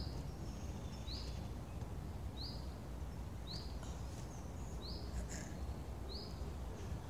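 A bird repeating one short, high chirp at an even pace, about every second and a bit, over a steady low outdoor rumble.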